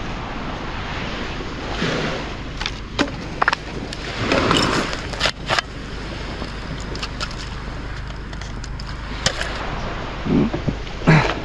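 Surf washing on a beach, with wind noise on the microphone and a louder surge of surf about four seconds in; scattered light knocks and clicks sound over it.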